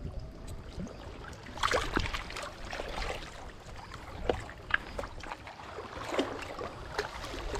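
Water lapping and splashing in small irregular slaps, over a low wind rumble on the microphone.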